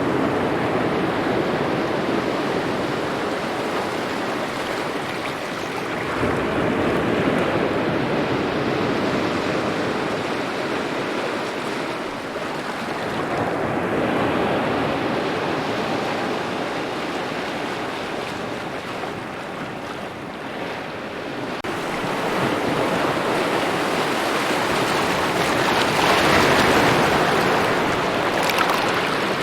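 Small waves lapping at the shore, the wash swelling and ebbing every several seconds.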